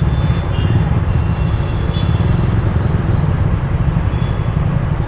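Motorcycle ride through city traffic: a steady, loud low rumble of engine, road and wind noise.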